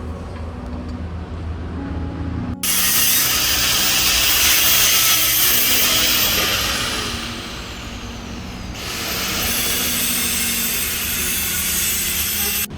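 A high-speed power tool running at full speed with a loud, hissing whine. About six seconds in it winds down with a falling pitch, then it is restarted and spins back up, running until it stops abruptly near the end. Before it, for a couple of seconds, there is a low steady hum.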